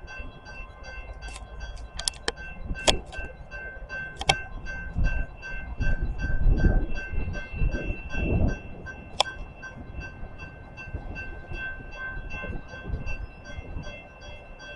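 A train passing, with a low rumble that swells about five to eight seconds in, a few sharp clicks, and a steady high ringing with an evenly repeating pattern.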